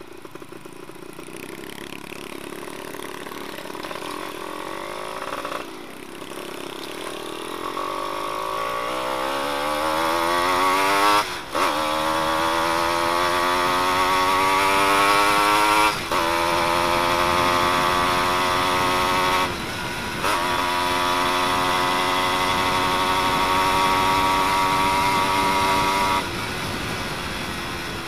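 Yamaha F1ZR 110 cc two-stroke single-cylinder engine running with its exhaust silencer insert removed. It is ridden hard: the revs climb for several seconds, then drop briefly several times at gear changes, with a steady high drone between.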